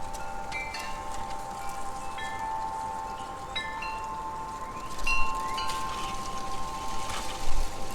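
Wind chimes ringing: long sustained tones from the lower tubes, with short higher notes struck here and there. A light gust of wind buffets the microphone near the end.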